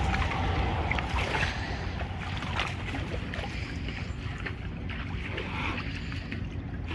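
Kubota M6040SU tractor's diesel engine running with a steady low rumble, with scattered short knocks over it.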